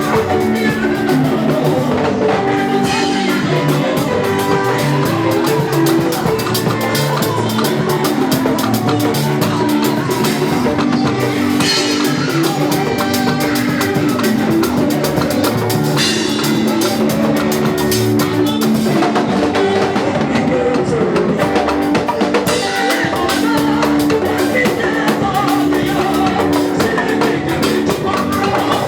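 Live worship band music: a steady drum-kit beat under held, sustained chords, with no clear vocal line.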